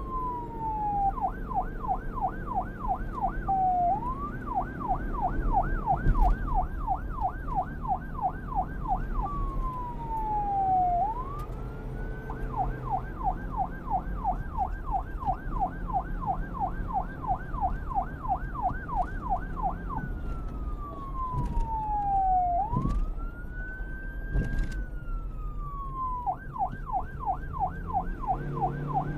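Police car siren alternating between a fast yelp, about four sweeps a second, and slow falling and rising wails, over the low rumble of the car.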